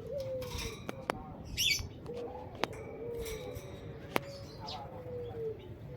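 Small cage birds giving short, high chirps, with a few sharp clicks between them.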